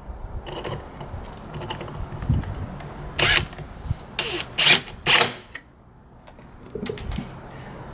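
Short bursts of mechanical clatter: four loud rattling clacks around the middle, some with a brief high squeak, over a low hum, as tools and hardware are handled.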